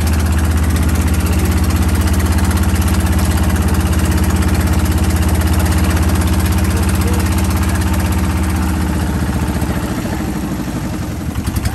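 A boat's engine running steadily with a low drone, then slowing about nine seconds in.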